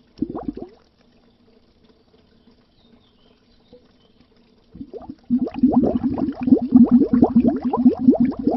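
Water bubbling underwater, a dense stream of quick rising blips. It stops just under a second in, leaving a faint low hum, and starts up again about five seconds in.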